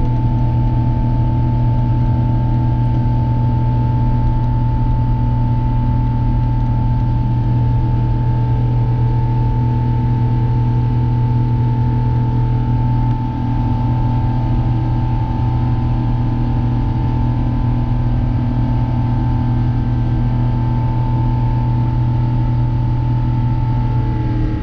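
Steady drone of an Airbus A350-900 airliner, a low hum with a few constant higher tones over a wash of noise.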